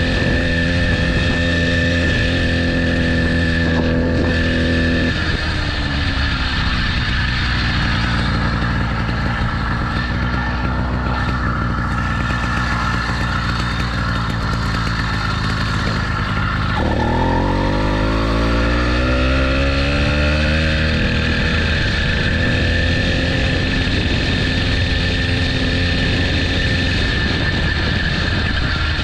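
80cc motorbike engine running: steady at first, its tone shifting about five seconds in, then rising in pitch as it speeds up about seventeen seconds in before settling into a steady run.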